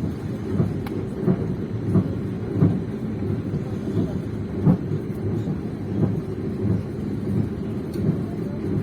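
Train wheels running on the rails: a steady low rumble with a clack over the rail joints about every second.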